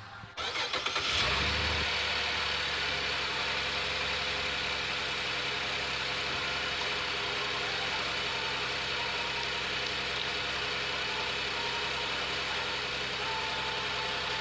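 2013 Cadillac SRX's 3.6-litre V6 cranking briefly and catching about a second in, flaring up and then settling into a steady idle. This is the first start after a fresh oil and filter change, run to circulate the new oil through the filter.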